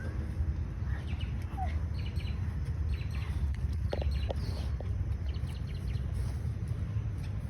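Outdoor ambience: a steady low rumble with scattered faint bird chirps and small clicks.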